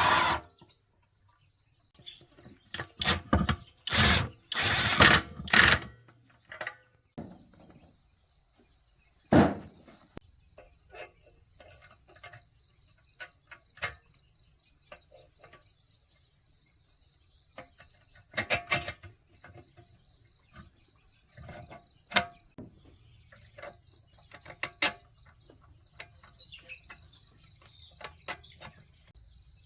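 Insects chirring steadily at a high pitch. There is a quick run of loud knocks in the first six seconds, another sharp knock about nine seconds in, and scattered lighter clicks and taps after that.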